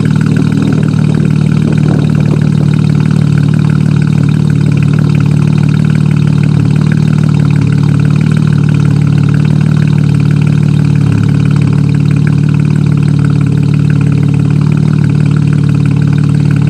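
2014 Chevrolet Camaro RS engine idling steadily after a cold start, heard through Solo Performance high-flow cats and a Flowmaster Outlaw Series 3-inch cat-back exhaust.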